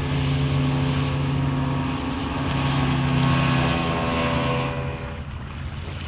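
Johnson 150 HP outboard motor running steadily at speed as the boat moves over the water, with water and wind rush. The engine note drops away about five seconds in.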